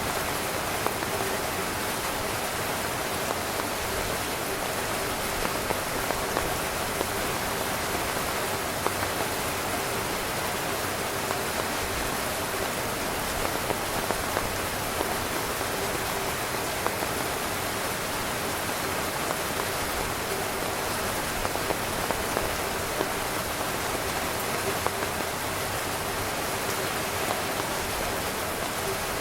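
Steady heavy rain drumming on a tent fly: a constant hiss with scattered sharper ticks of single drops.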